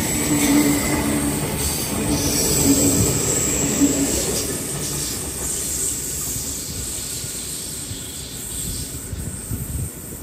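V-set double-deck electric intercity train passing on the rails, a heavy running rumble with a steady held tone that breaks on and off in the first few seconds. It fades away steadily as the train moves off.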